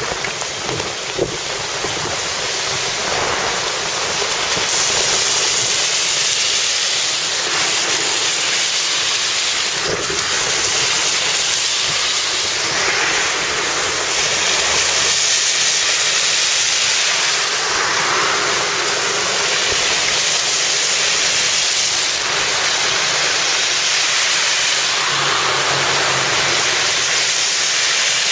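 Heavy downpour: steady, loud rain with runoff water draining along the road shoulder into a slotted collection gutter. The rain gets louder about five seconds in.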